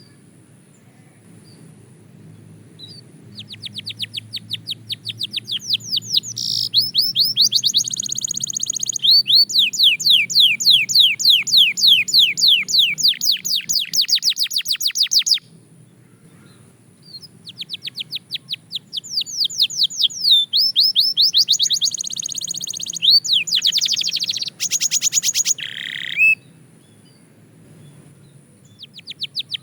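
Belgian canary singing long phrases of fast, rapidly repeated trilled notes, about eight notes a second. The song breaks off twice for a couple of seconds before starting again.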